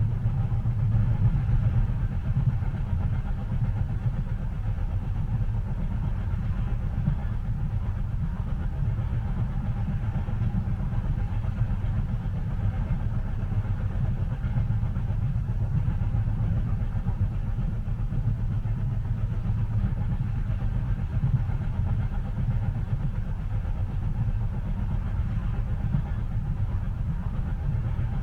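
Steady low rumble of a train running, heard from inside a passenger car, with no distinct rhythm or clatter.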